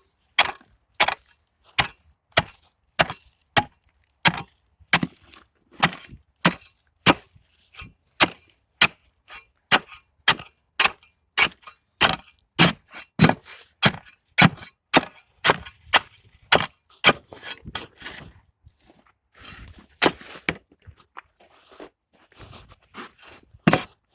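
An ice chopper being driven down again and again into thick ice, each blow a sharp crack, about two strikes a second. After a short pause the last strikes come more unevenly.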